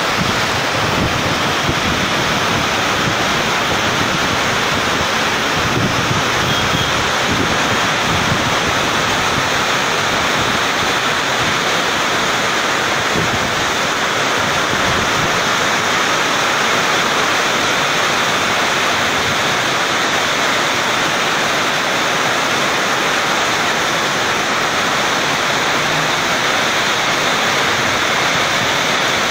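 Heavy rain pouring steadily in a strong wind, a loud even rush. Wind rumbles on the microphone, mostly in the first several seconds.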